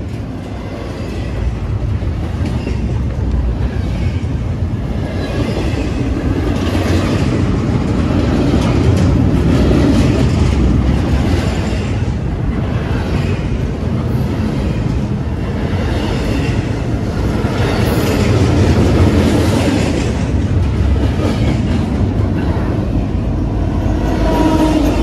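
Metra commuter train running past on the rails, a steady heavy rumble with the wheels clacking rhythmically over rail joints throughout.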